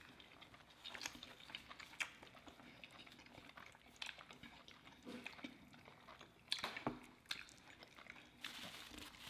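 Quiet chewing and mouth sounds of two people eating burritos and tortilla chips, with scattered small clicks and smacks and one sharper click about six and a half seconds in.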